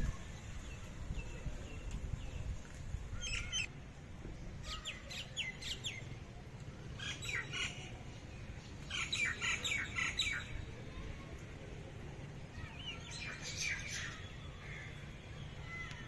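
A songbird calling in the trees: about five short bursts of rapid, chattering chirps a few seconds apart, over a faint low rumble.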